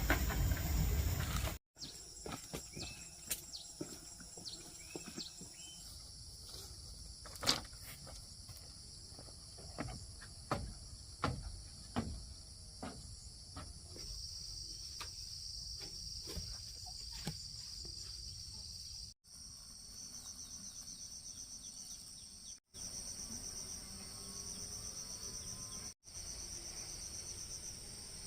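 Insects chirping in a steady high-pitched chorus, with scattered clicks and knocks through the first half. The sound breaks off abruptly several times.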